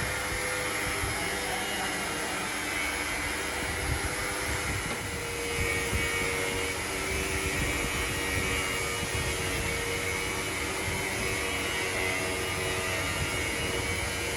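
Workshop machinery running steadily: a constant mechanical drone with a few steady tones over a broad hiss.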